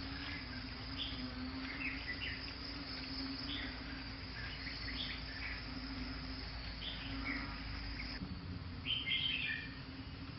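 Outdoor insect chorus droning steadily, with scattered short bird chirps throughout and a louder cluster of chirps near the end. A low rumble underneath stops about eight seconds in.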